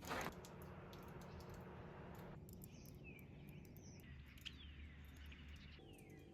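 Quiet outdoor ambience with a faint steady hiss and a few faint high bird chirps, some sliding down in pitch, after a short burst of noise right at the start.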